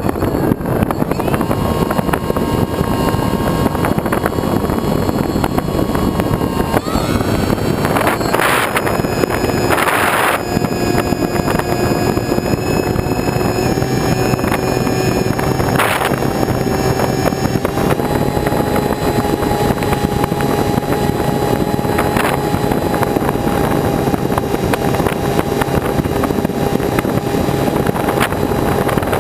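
A motor running steadily under heavy wind rush on the microphone, its tone stepping up in pitch twice. There are a few short noisy flares along the way.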